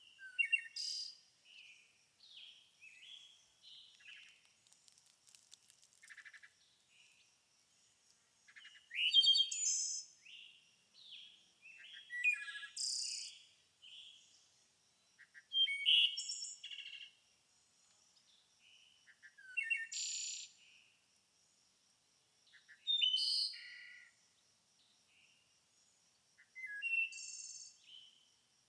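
Songbirds singing and chirping. A loud song phrase comes every three to four seconds, with softer chirps between, over a faint steady high-pitched buzz.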